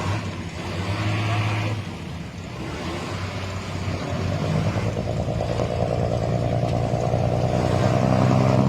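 Scania 550 hp marine diesel engine of a riverboat running hard under heavy throttle, a steady deep engine note growing louder, with higher tones building from about halfway through.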